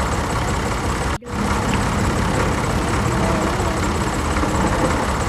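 Swaraj tractor's diesel engine running steadily. The sound cuts out for an instant about a second in.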